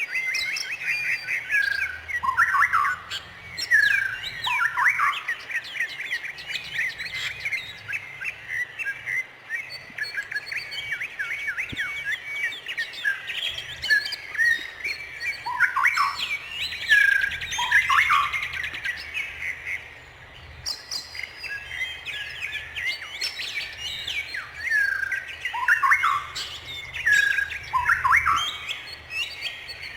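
Several songbirds chirping and singing at once, a dense run of quick high chirps with repeated downward-sweeping notes, over a faint low rumble.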